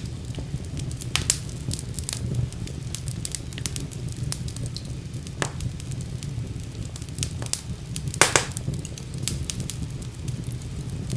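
Fire burning in a fireplace: a steady low rumble with frequent sharp crackles and pops, the loudest pop about eight seconds in.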